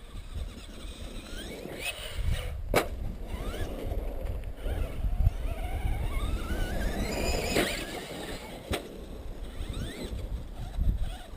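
Electric motors of Traxxas E-Maxx RC monster trucks whining, rising in pitch as they speed up, with two sharp knocks about 3 s and 9 s in, over a low rumble of wind on the microphone.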